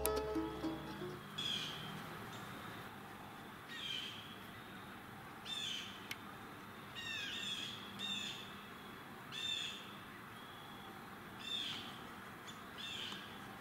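A bird calling again and again, short harsh calls spaced about one to two seconds apart.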